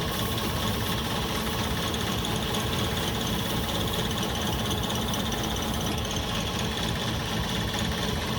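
Belt grinder running with a medium abrasive belt, sanding the pitted metal of an old knife with a steady, unbroken grinding noise.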